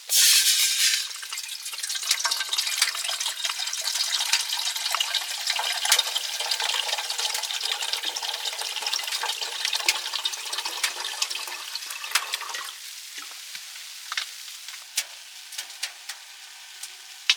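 Food sizzling in a hot pan: a loud hiss in the first second, then steady sizzling with crackles and pops that drops quieter about thirteen seconds in.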